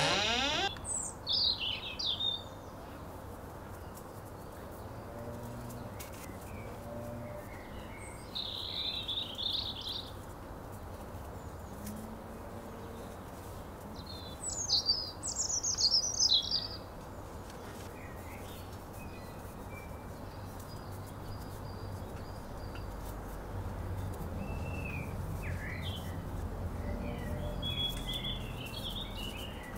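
Birds chirping and singing in short phrases, three louder bursts in the first half and fainter chirps near the end, over a steady low background rumble.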